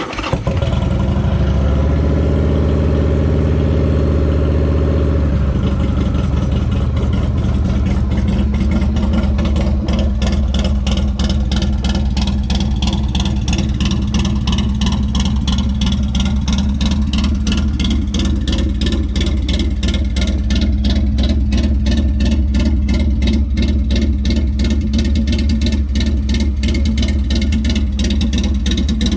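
A 2001 Harley-Davidson Sportster 1200 Sport's air-cooled V-twin, breathing through a Cobra El Diablo 2-into-1 exhaust, fires up. It runs at a higher, fuller idle for about five seconds, then settles into a steady, pulsing idle.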